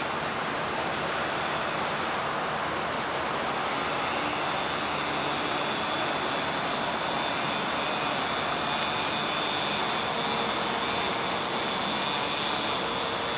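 Steady rushing background noise without a break. A faint high whine joins it from about a third of the way in, and a low hum near the end.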